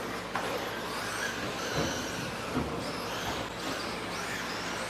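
Several 1/10-scale electric stadium trucks with 13.5-turn brushless motors racing, their motor whines rising and falling as they speed up and slow down over a steady low hum.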